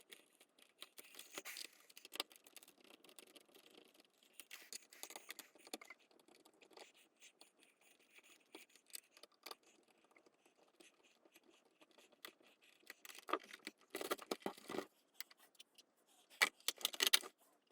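Faint, scattered clicks, rattles and short scrapes of small hard objects being handled, growing busier near the end.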